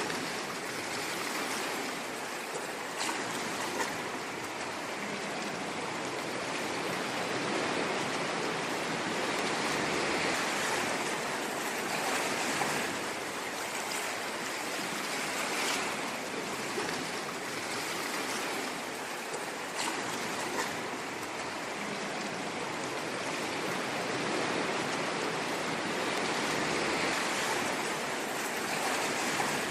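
Ocean waves washing onto a shore: a continuous rush of surf that slowly swells and eases, with a few light clicks scattered through it.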